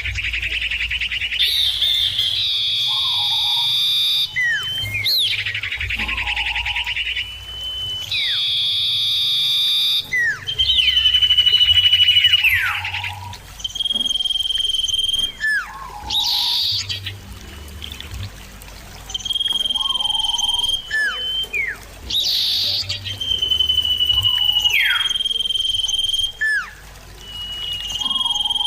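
Common ioras (cipoh) calling back and forth: dense buzzy trills in the first seconds, then long steady whistled notes held for a second or more, mixed with sharp downward-sliding notes, repeating over and over.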